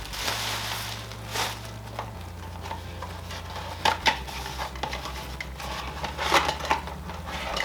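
Packaging and parts being handled while unpacking a box: scattered light clicks, taps and rustles, with a few sharper knocks near the middle and end.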